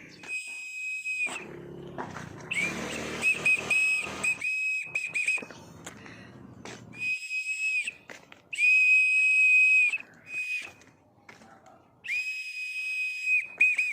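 A person whistling to call back an escaped pet bird: long, steady, high whistled notes of about a second each, alternating with runs of short quick pips. Some rumbling handling or wind noise runs under the first half.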